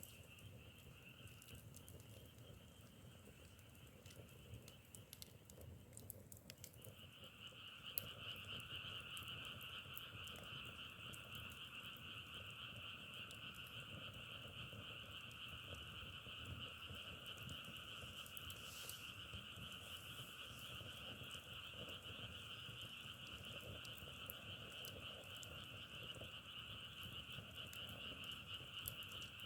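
A frog chorus calling steadily. It breaks off about six seconds in and comes back louder, with scattered faint crackles of a wood fire.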